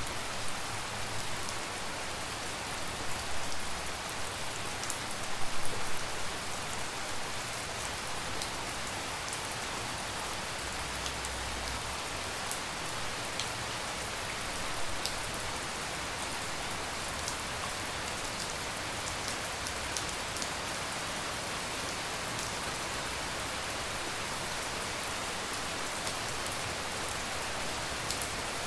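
Steady tropical rain falling, an even hiss with scattered close drips and patters on surfaces, a little louder for a moment a few seconds in.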